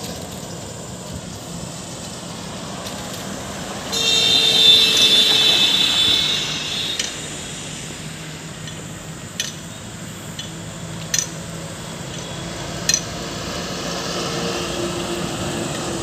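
Steady highway traffic noise of passing vehicles. About four seconds in, a loud high-pitched tone sounds for some three seconds, and a few sharp clicks follow later.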